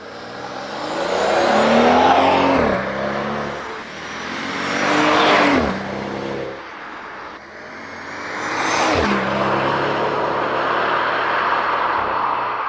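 Mercedes S65 AMG's twin-turbo V12 accelerating hard. Its pitch climbs, then drops sharply at each upshift, each gear pulling longer than the last, under a growing hiss.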